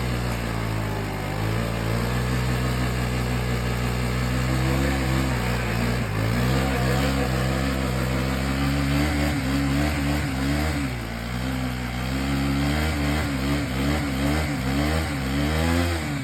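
Suzuki DR-Z250's single-cylinder four-stroke engine revving hard during a burnout, held at fairly steady high revs at first, then revs rising and falling quickly in the second half.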